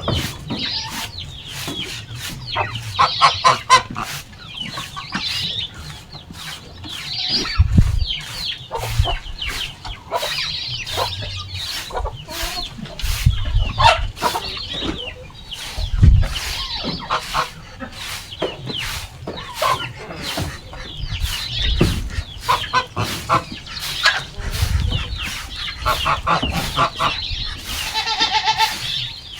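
Domestic chickens clucking over a steady run of short scratchy strokes, as droppings are scraped off a dry, dusty feeding area. There are a few low thumps, and near the end a longer, pitched bird call.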